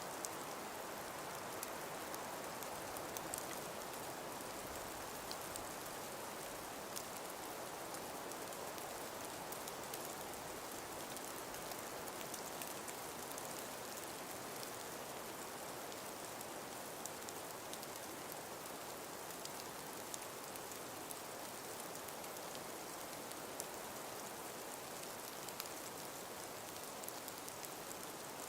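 Steady outdoor nature ambience: an even, soft hiss with many faint light ticks scattered through it, unchanging throughout.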